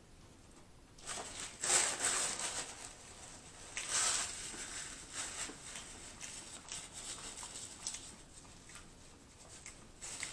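Close-up chewing of a crispy fried chicken sandwich: crunchy, crackling mouth sounds, loudest about a second and a half in and again about four seconds in, then softer chewing.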